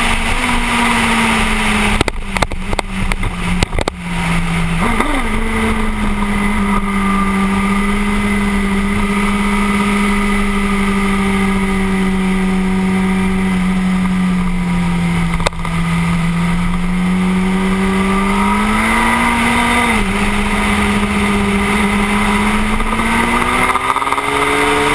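Suzuki GSX-R1000 inline-four engine running at high, steady revs on track, with wind noise rushing over the camera. The note holds level for long stretches, steps down in pitch about fifteen and twenty seconds in and climbs again, and there is a patch of rough knocks about two seconds in.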